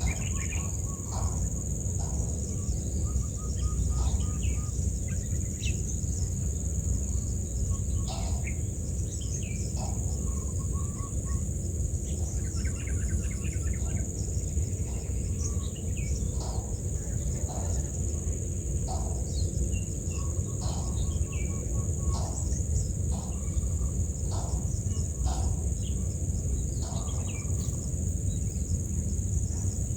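Outdoor nature ambience: insects keep up a steady high-pitched buzz while small birds give short, scattered chirps and calls, over a steady low rumble.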